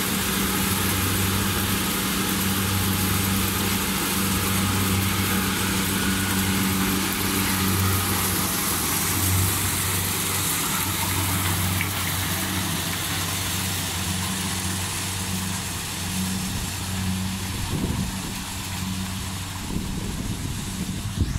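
Engine running steadily with a constant hum and a broad hiss of machinery. It grows weaker and uneven about three-quarters of the way through.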